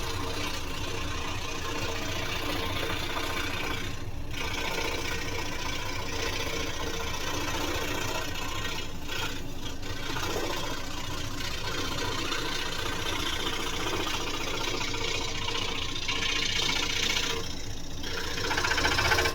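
Scroll saw running steadily while cutting a workpiece, with a constant motor hum under the rasp of the reciprocating blade. The sound thins briefly a few times and stops right at the end as the cut is finished.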